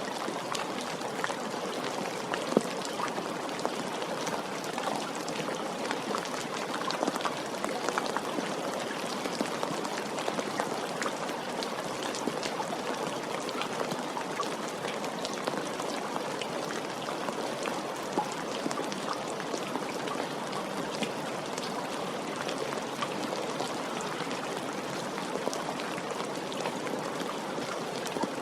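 Steady rain with many close individual drops pattering on a surface.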